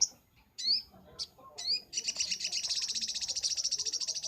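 Little spiderhunter (sogok ontong) calling: a few sharp, high down-slurred chirps, then about two seconds in a long, fast, even trill of rapid repeated notes.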